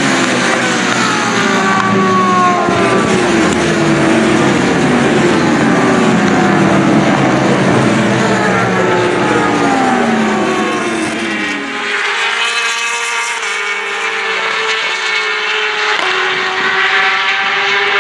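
Several racing motorcycles passing at speed one after another, their engine notes dropping in pitch as each goes by. From about twelve seconds in a steadier engine note carries on.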